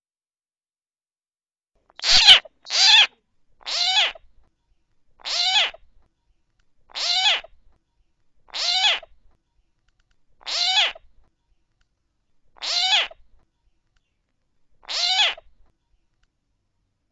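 Coucal calling: a string of nine short, harsh calls that begins about two seconds in, the first two close together, then one roughly every second and a half to two seconds.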